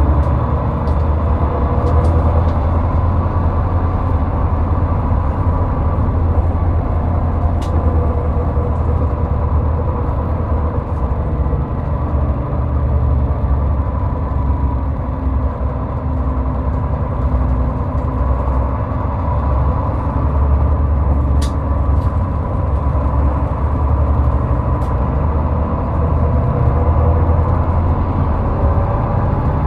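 Steady low road-and-engine rumble of highway driving, with faint whining tones above it and a couple of faint ticks.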